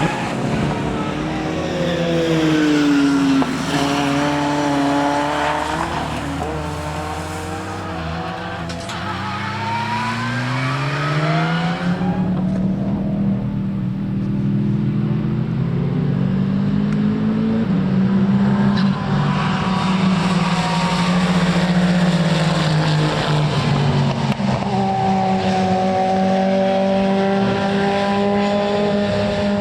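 Racing car engine running on a circuit, its pitch falling and rising as it slows and accelerates through the gears, then settling into a steady note near the end.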